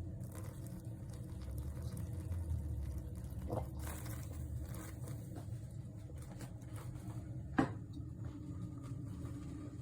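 Moccamaster drip coffee maker brewing: faint liquid gurgling and pattering over a steady low hum, with a sharp click about three-quarters through.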